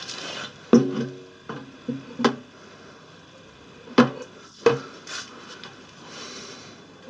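Washing machine drum being set back into its plastic tank half, giving a series of irregular knocks and clunks, several with a brief metallic ring.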